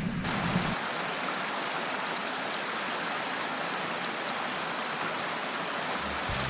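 Mountain stream rushing steadily: an even wash of running water. A low rumble underneath stops under a second in.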